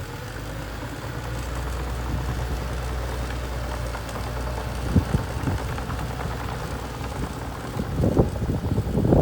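Mini bulldozer's engine running with a steady low drone, with two sharp knocks about five seconds in and a run of louder knocks near the end.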